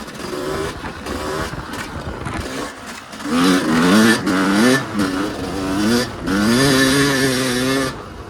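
Yamaha YZ250 single-cylinder two-stroke dirt bike engine under hard throttle. It runs quieter for the first few seconds, then revs loudly, climbing and dropping in pitch several times. It holds one long high rev and cuts off suddenly as the throttle shuts near the end.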